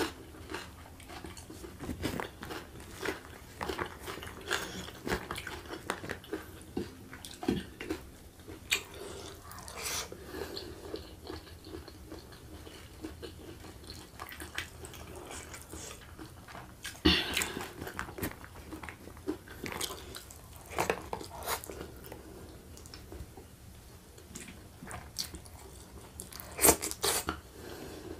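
Close-miked mouth sounds of a person chewing food: a steady run of wet smacks and clicks, with louder bites about seventeen and twenty-seven seconds in.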